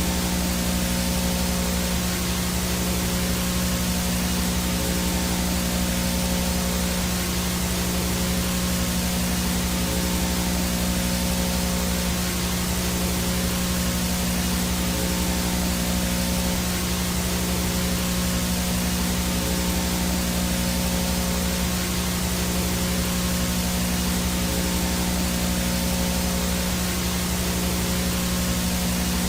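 VHS no-signal static: a steady hiss of white noise mixed with a constant low hum and a thin high whine, unchanging throughout.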